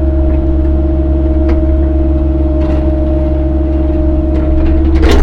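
CAT 308 mini excavator's diesel engine and hydraulics running steadily, a loud low drone with a constant whine over it. A higher part of the whine stops near the end.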